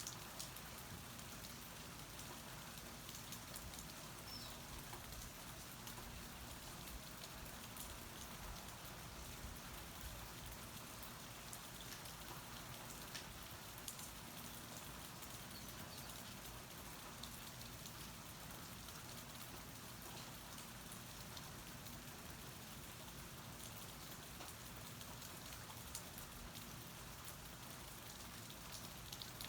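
Steady rain falling, with many scattered individual drops ticking close by.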